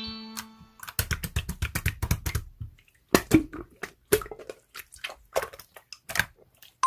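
Slime being squeezed and pressed, giving irregular runs of sticky clicks and pops with short pauses. A chime-like music tone fades out in the first second.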